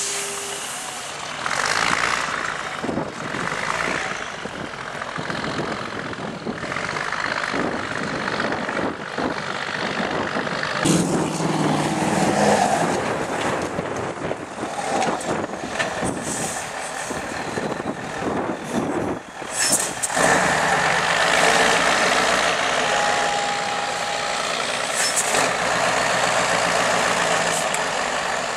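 Off-road trial truck's diesel engine running hard and varying in pitch as it works through a course, with several short sharp hisses like air brake releases.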